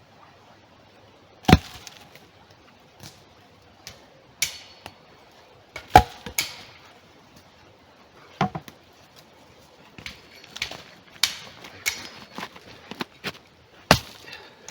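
An axe chopping wood in irregular blows: four heavy strikes a few seconds apart, with lighter knocks and cracks of wood between them.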